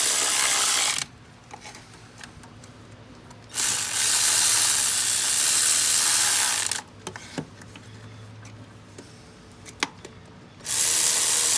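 A power tool runs in long bursts of about three seconds: it stops about a second in, runs again for about three seconds, and starts up again near the end. Faint clicks and taps come in the pauses between bursts.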